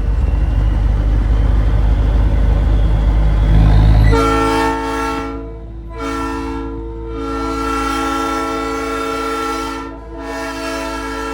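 Nathan Airchime P3 three-chime train horn on a big rig, blown about four seconds in and held as a steady chord in long blasts with two short breaks. Before the horn, a loud low truck engine and road rumble.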